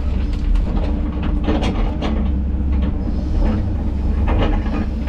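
Diesel engine of a tracked excavator running steadily, with irregular clanks and knocks from the machine's metal works and the logs it is handling.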